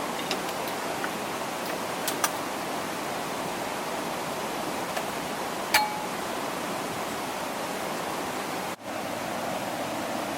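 Steady rushing noise of flowing water, with a few sharp clicks and one short metallic clink about six seconds in.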